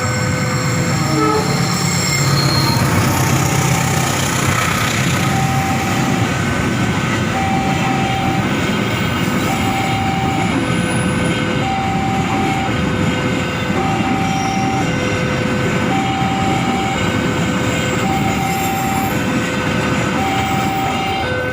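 Train passing over a railway level crossing, its wheels rumbling steadily on the rails. The crossing's electronic warning alarm repeats two alternating tones about once a second, and the locomotive's horn sounds in the first couple of seconds.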